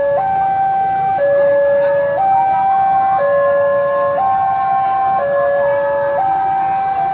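Railway level-crossing warning alarm sounding, a lower and a higher tone alternating evenly about once a second: the signal that a train is approaching.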